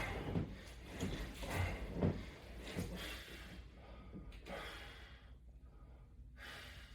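A man breathing hard under exertion, a run of short forceful breaths in the first few seconds that then grow quieter.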